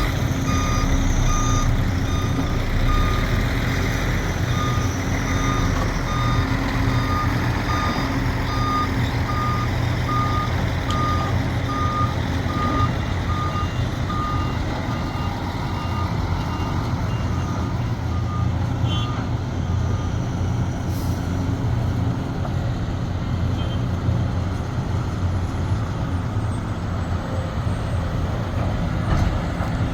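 Diesel engine of heavy earthmoving machinery running steadily, with a backup alarm beeping in an even rhythm that stops about two-thirds of the way through.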